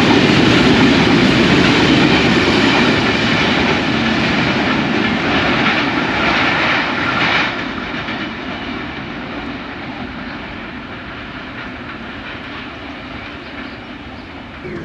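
Covered goods wagons of a freight train rolling past on the rails. The noise drops sharply as the last wagon goes by about seven and a half seconds in, then fades as the train draws away.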